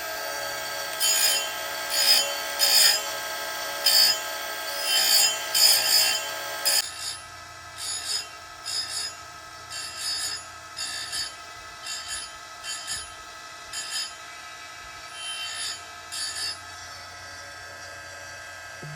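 Oregon 410-120 chain grinder with a CBN wheel running, its motor humming steadily, with a short scraping grind each time the wheel comes down on a cutter of a .325 saw chain, about one a second. The hum and the grinding drop in level about seven seconds in.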